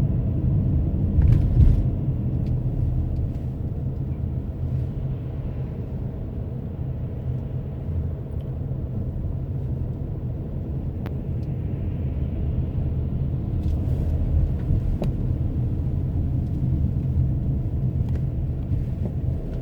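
Car driving along the road: a steady low rumble of engine and tyres, with a few faint ticks.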